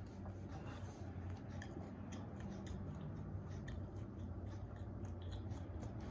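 Close eating sounds: chewing and mouth smacks with many small scattered clicks as baked chicken is eaten by hand, over a low steady hum.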